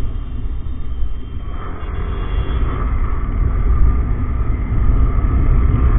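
Wind rumble on the microphone and riding noise from a Yamaha R15M motorcycle under way, growing louder from about halfway through.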